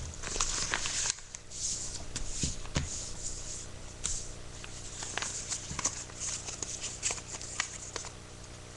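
A sheet of paper rustling and crinkling as it is handled and folded, with irregular small crackles that thin out near the end.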